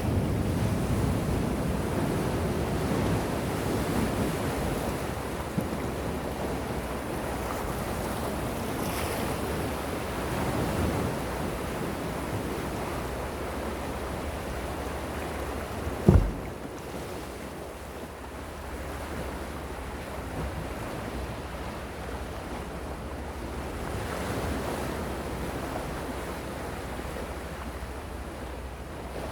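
Gentle sea waves washing in, a steady wash that swells and eases, with some wind on the microphone. A single sharp thump about halfway through is the loudest moment.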